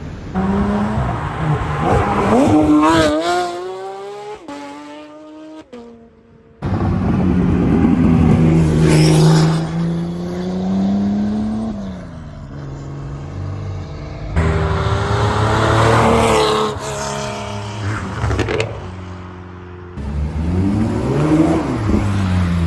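Porsche sports car engines accelerating hard and revving in a run of separate clips, their pitch climbing through the gears and dropping away as the cars pass. Abrupt cuts separate the clips.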